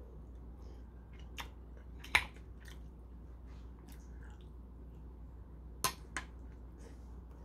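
Chewing, with a few sharp clicks of a metal fork against a porcelain plate: one small click, a louder one a little after two seconds in, and two close together near six seconds.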